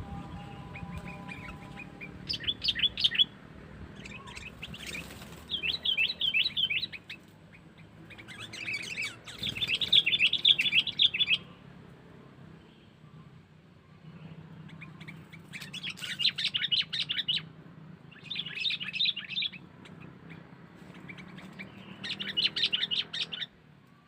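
Sooty-headed bulbul calling in about six bursts of rapid chattering notes, each lasting one to three seconds.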